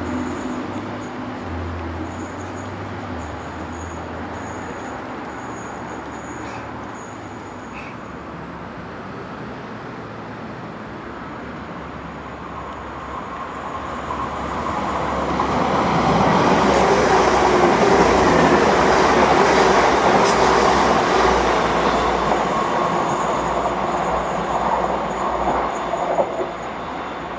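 TransPennine Express Class 185 diesel multiple unit approaching and running past, its diesel engine and wheels on the rails building to their loudest about two-thirds of the way in as the train comes close, then easing.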